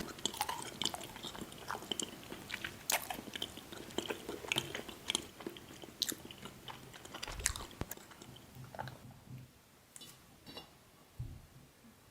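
Close-miked eating sounds: a person biting and chewing candy, with crunches and sharp mouth clicks, thinning out over the last few seconds.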